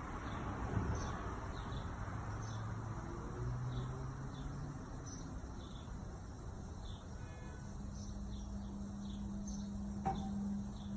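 2015 A. O. Smith gas water heater running with its burner lit, a steady low rumble; a low hum builds up about two-thirds of the way in and grows louder toward the end: the humming the heater makes once the burner is on. A single short click comes near the end.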